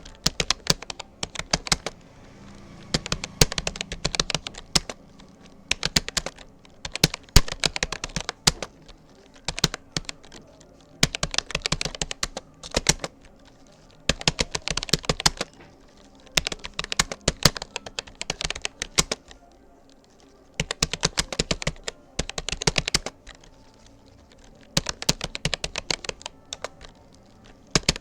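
Touch typing on a Rapoo computer keyboard: rapid key clicks in runs of a second or two, broken by short pauses between words and phrases, at a steady test pace of about 40 words per minute.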